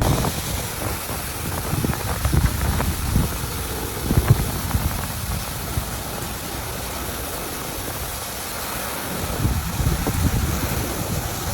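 Storm wind and rain: a steady hiss with an uneven low rumble as gusts buffet the microphone, swelling in bursts a few seconds in and again near the end.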